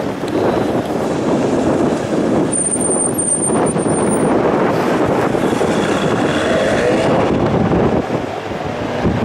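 Ferrari 599 GTB Fiorano's V12 engine running loud and steady, a dense rough sound without a clear pitch.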